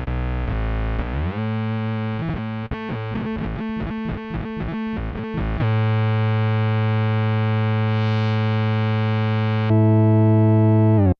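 Electric bass played through a Dunlop MXR MB301 Bass Synth pedal, giving synth-bass tones. A note glides upward about a second in, then comes a fast choppy pulsing passage, then one long held low note that gets louder near the end.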